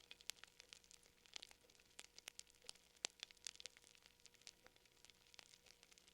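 Faint wood fire crackling: irregular small pops and snaps, a few sharper ones, over a soft hiss.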